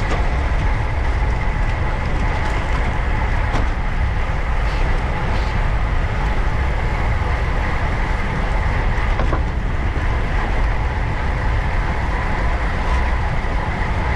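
Steady rush of wind and road noise on a bicycle-mounted camera's microphone while riding on the road, with a faint steady whine and a few light ticks over it.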